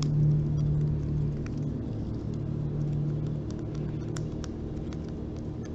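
Fingers rubbing and scratching the rough, hairy shell of a coconut close to the microphone: a low rumbling rub that swells and eases, with scattered small clicks.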